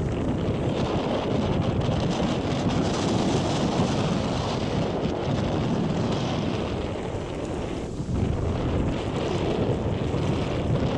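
Steady wind noise buffeting the microphone, with the rush of water around a sailing canoe under sail.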